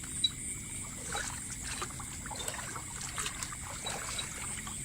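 Water splashing and trickling in short irregular bursts as a fish caught on a set hook is pulled and thrashes at the surface, with a sharp splash just after the start. A steady high-pitched hum runs underneath.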